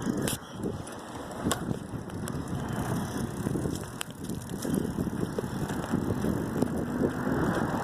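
Bicycle being ridden along a road: a steady rushing noise of tyres and air, with a few sharp clicks or rattles.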